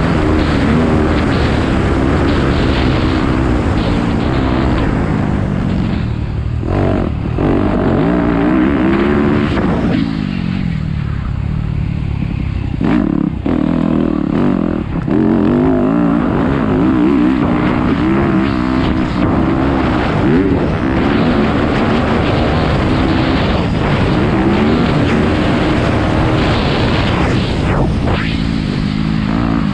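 Dirt bike engine running hard, its pitch climbing and dropping again and again as the rider works the throttle, with brief drops off the throttle along the way.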